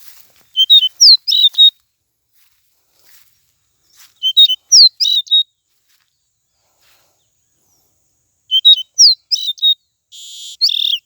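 Caboclinho (a Sporophila seedeater) singing: three short, loud phrases of quick whistled notes, some sliding up or down, spaced about four seconds apart, followed near the end by a harsher, buzzier note.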